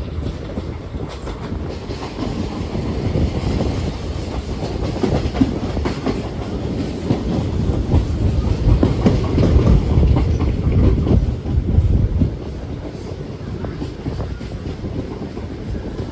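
Train running along the track: a steady low rumble with the clickety-clack of wheels over rail joints. It grows louder for a few seconds in the middle.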